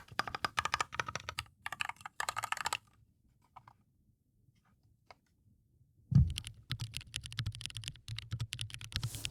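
Keys of an MKESPN K808 mechanical macropad being pressed in fast runs of clacks. A pause of about three seconds holds only a few faint ticks, then a loud knock and more rapid key presses.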